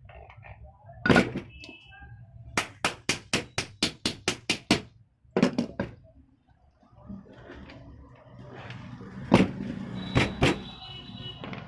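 Sharp metal knocks and clicks of tools at work on a tractor's starter motor as it is fitted: a single knock, then a quick run of about ten even taps at roughly five a second, another knock, and two loud knocks near the end.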